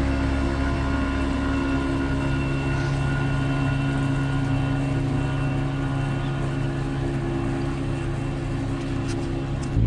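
Boat engine running steadily: a constant motor hum with several steady tones, one low tone shifting slightly about two seconds in.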